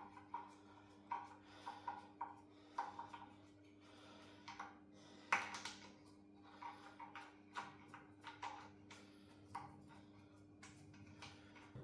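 Light metallic clinks and taps of hand tools and small engine parts being handled during teardown of a Suzuki F6A engine. About a dozen scattered knocks, some with a short ring, and the loudest about five seconds in.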